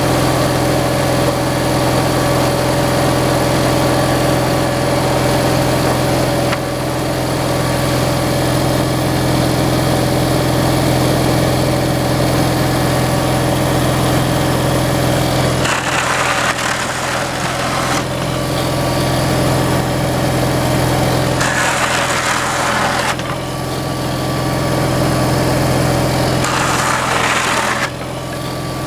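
Engine of a kindling-making machine running steadily, driving the machine and its bucket elevator, with three short stretches of louder noisy clatter about halfway through, around two-thirds through and near the end.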